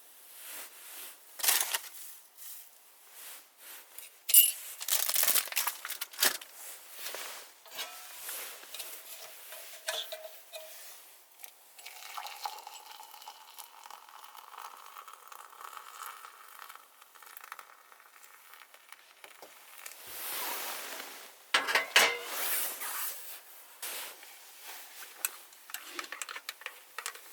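Clinks and knocks of dishes and cooking utensils mixed with rustling and crinkling, as food is handled and prepared. A sharp clink about four seconds in is the loudest sound, and there is a denser burst of rustling and knocks near the end.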